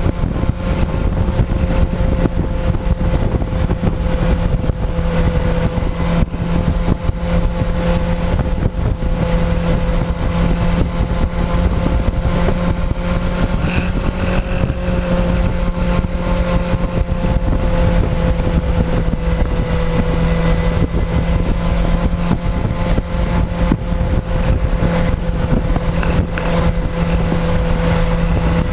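Motorcycle engine running at a steady, nearly constant speed while riding, with a continuous rush of wind noise over it.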